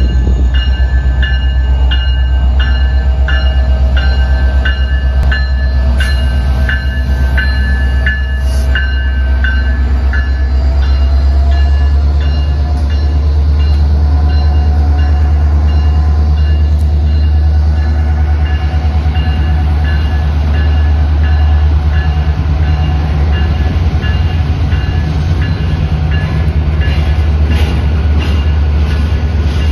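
Norfolk Southern freight train's diesel locomotives passing close by with a heavy, steady low engine rumble, the grade-crossing bell ringing about twice a second over it. The bell fades under the train for a while in the middle, and covered hopper cars rumble past near the end.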